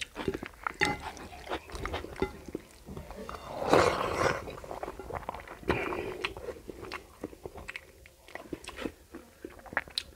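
Close-miked eating sounds of rice and curry eaten by hand: wet chewing and lip smacks as a run of sharp clicks, with fingers squishing rice and curry on the plate. There is a louder, longer stretch about four seconds in and a shorter one near six seconds.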